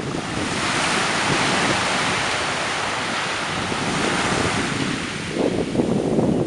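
Surf washing in: a broad hiss that swells and then fades. Near the end, wind buffets the microphone in low gusts.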